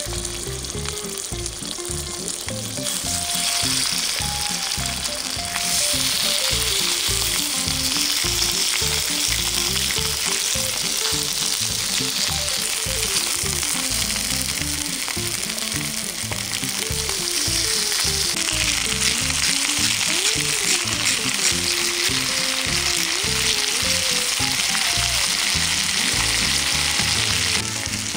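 Chicken pieces sizzling in hot oil in a pan. The sizzle gets louder about three seconds in and again about six seconds in, then drops just before the end.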